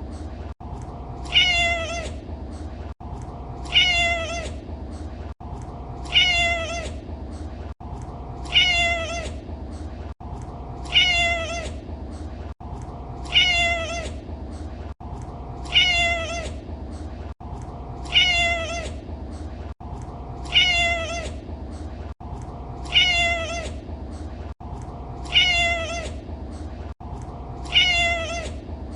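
Domestic cat meowing, the same meow repeating evenly about every two and a half seconds, each ending in a slightly falling pitch, over a steady low hum.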